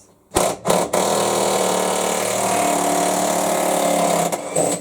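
A power tool with a 38 mm socket spins off the washing machine tub's retaining nut. It gives two short blips, then runs steadily for about three and a half seconds and stops near the end.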